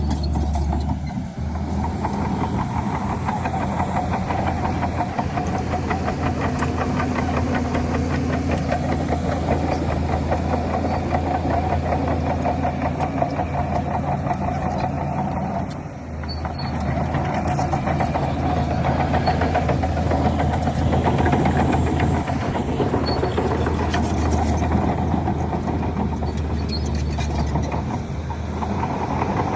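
Heavy diesel engine of a Shantui DH17C3 bulldozer working, running steadily. The level drops briefly about a second in and again around sixteen seconds in, then picks up again.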